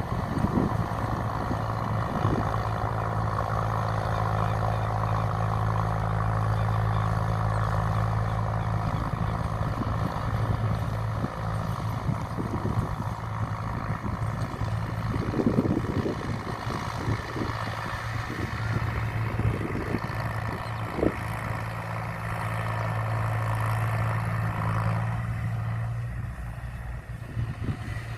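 Tractor engine running steadily while working a flooded rice paddy, with scattered clattering knocks now and then; the engine sound eases off near the end.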